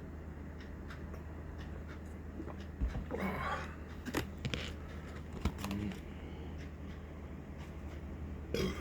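A person burps once, about three seconds in, followed by a few small clicks and knocks, with a steady low hum underneath.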